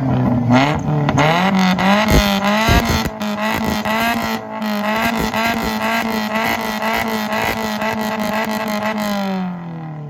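A three-wheeled vehicle's engine revved hard through a loud exhaust. It is held near the top of its revs with the pitch bouncing up and down and sharp pops and cracks breaking through. About nine and a half seconds in, the throttle is released and the engine falls away.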